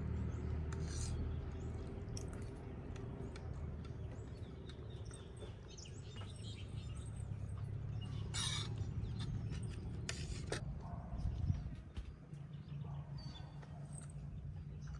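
Outdoor ambience: a steady low rumble with a few short bird chirps scattered through it, the clearest about eight and a half seconds in.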